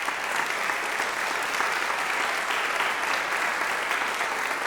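Audience applauding steadily in a hall, many hands clapping together.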